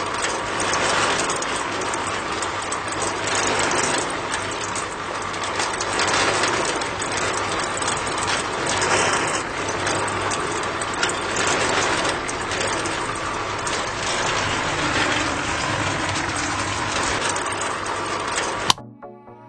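A small motor-driven machine running steadily with a dense mechanical noise. It cuts off suddenly near the end.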